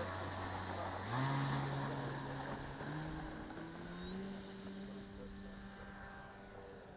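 Electric motor and propeller of a large model airplane running in flight, a steady pitched drone. The pitch steps up sharply about a second in and again twice around three to four seconds, while the sound slowly grows fainter.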